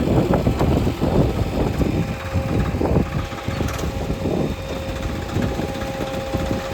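Heavy diesel engine of a farm tractor or backhoe loader running with a dense, uneven rumble; a thin steady whine joins about two seconds in and holds.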